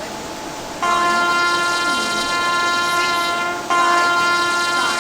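Train horn sounding two long, steady blasts, the first starting about a second in and the second following straight on after a brief break.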